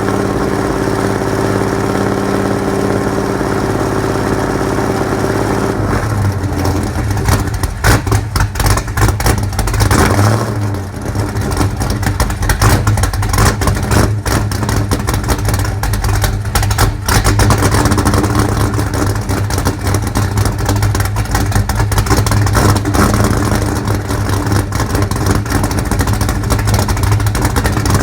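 1992 Mustang's ATK 347 stroker small-block V8 running cold. It holds a steady, even note for about six seconds, then drops to a lower, choppy, uneven running with irregular stumbles: it is running rough while still cold.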